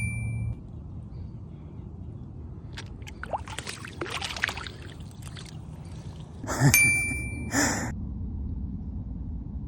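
Water splashing and sloshing as a hooked fish is played in at the surface, with two short metallic dings about seven seconds in.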